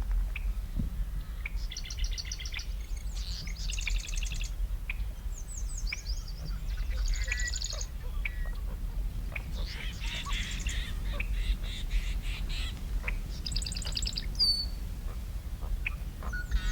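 Birds calling, with repeated bursts of rapid chattering trills about a second long and a few short sliding notes, over a low steady rumble.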